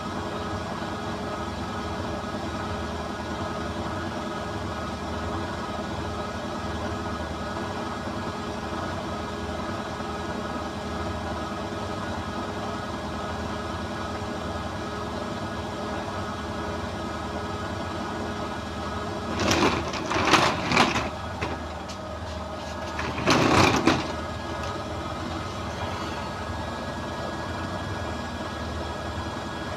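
Beko washing machine running with a steady motor hum, spinning an unbalanced load. About twenty seconds in come loud knocking bursts, and another round a few seconds later.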